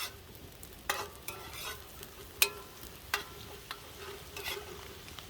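Cabbage and beer sizzling in a pan over a campfire: a faint steady sizzle broken by a handful of sharp pops or clicks, about one a second.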